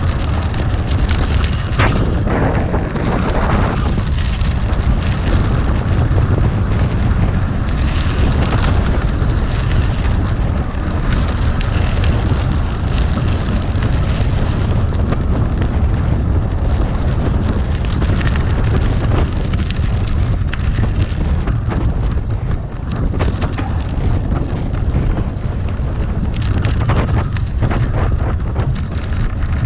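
Gravel bike tyres rolling over rough, loose gravel, with a steady stream of small stone clicks and a low rumble of wind on the microphone.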